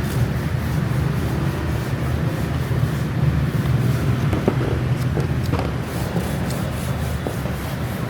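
Steady low mechanical hum with a few light clicks and short scrapes from about four seconds in.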